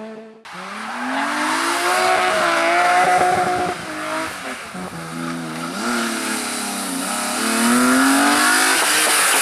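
Competition car engine revving hard, its pitch repeatedly climbing and dropping as the driver accelerates and lifts off. The sound cuts in just after a brief gap at the start.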